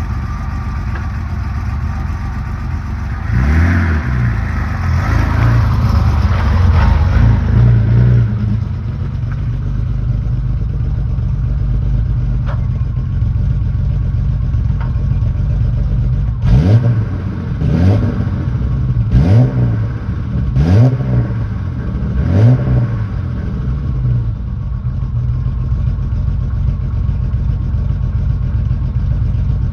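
BMW E30 325i's M20B25 inline-six idling through a Magnaflow exhaust. Its revs rise and fall once, and a little later it is blipped five times in quick succession, about every second and a half, before it settles back to idle.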